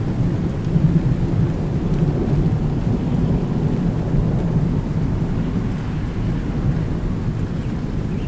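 Rolling thunder rumbling deep and long over steady rain.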